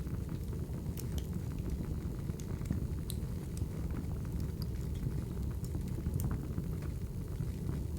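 Wood fire burning: a steady low rumble with scattered sharp crackles and pops from the logs.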